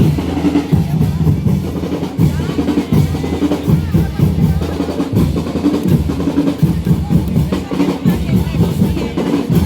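Parade drum corps playing: bass drums keeping a steady marching beat under snare drums, with rolls.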